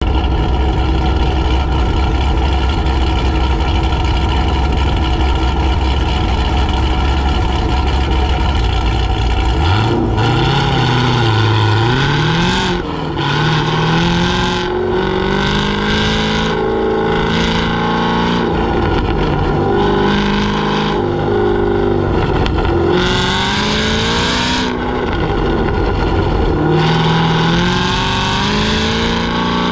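Supercharged V8 of a modified Chevrolet Camaro ZL1 idling steadily at first, then revving up about ten seconds in as the car launches. After that its pitch rises and falls over and over as it accelerates and lifts between autocross cones.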